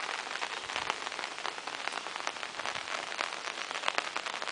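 Steady rain falling, with many fine pattering drops striking nearby surfaces.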